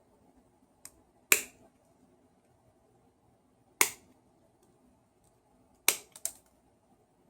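Sharp clicks and knocks of small hand tools and parts being handled during the repair of a hammer drill's wiring. There are three strong clicks about two seconds apart, followed at the end by two smaller ones, over a faint steady hum.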